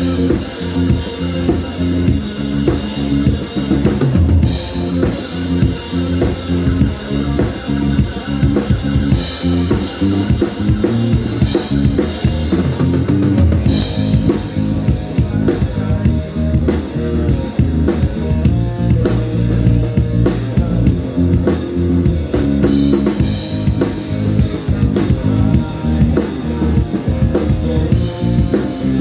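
Live rock band playing an instrumental passage without vocals, the drum kit prominent with kick and snare over bass and guitars.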